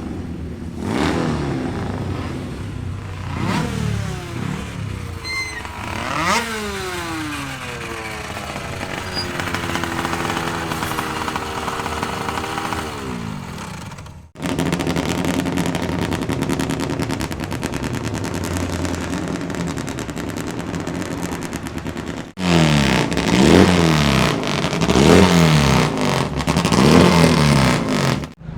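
Two-stroke racing motorcycle engines running and being revved. A sharp blip about six seconds in falls away slowly in pitch. After an abrupt change about halfway, an engine runs at a steady speed, and near the end it is blipped three times in quick succession.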